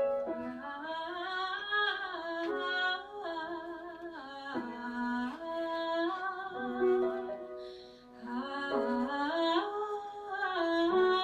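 Female voices singing a wordless melody, with held notes that slide up and down between pitches and a brief dip about eight seconds in.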